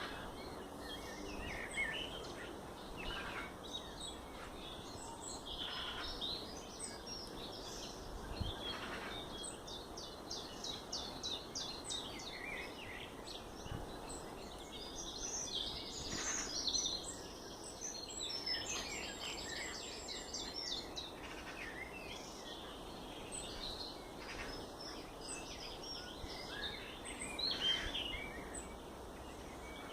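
Several songbirds singing and calling: a mix of short high chirps and trills, including a quick, evenly paced trill about ten seconds in, over a steady background noise haze.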